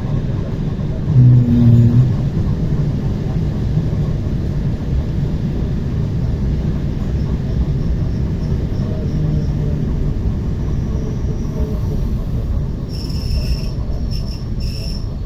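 ER9T electric multiple unit running along the track: a steady low rumble of wheels on rails. About a second in comes a brief low tone in two short pulses, and near the end a high intermittent wheel squeal starts.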